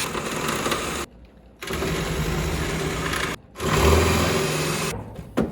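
Power drill drilling out seized seat-mounting bolts, running in three bursts of about a second and a half each with short pauses between.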